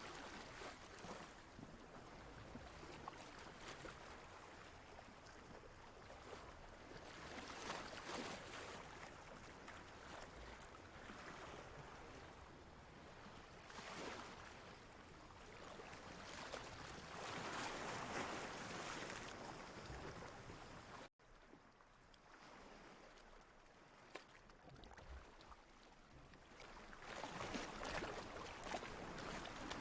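Ocean waves washing in and receding, a soft hiss of water that swells and fades every few seconds. About two-thirds of the way through it cuts out for an instant, then carries on a little quieter.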